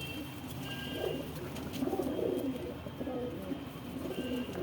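Domestic pigeons of the Madrasi breed cooing, several low coos in a row.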